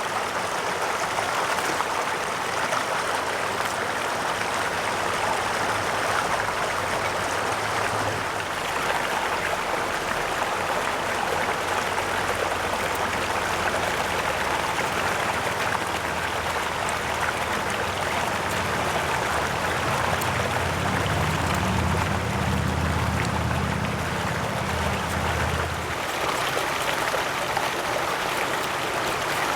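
Mountain stream rushing steadily. A low hum rises underneath from several seconds in, grows strongest for the last few seconds before it, and cuts off a few seconds before the end.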